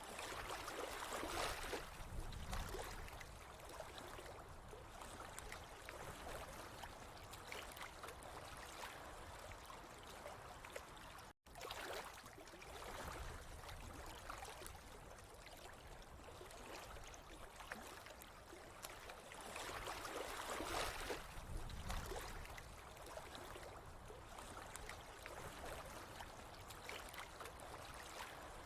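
Water running and trickling steadily, swelling louder twice, with a brief sudden gap about 11 seconds in.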